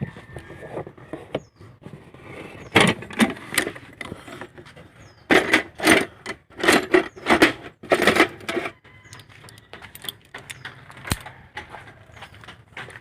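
Hand tools and small metal parts clattering and clinking as they are handled, in a short burst of knocks and then a longer run of them.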